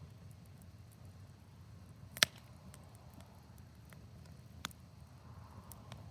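Wood fire in a fire pit crackling: scattered small ticks over a faint low rumble, with one sharp pop about two seconds in and a second, weaker pop over two seconds later.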